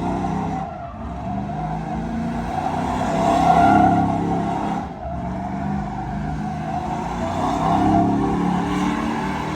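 Vehicle engine revving hard with tires squealing in a burnout, the revs dropping briefly about a second in and again about five seconds in.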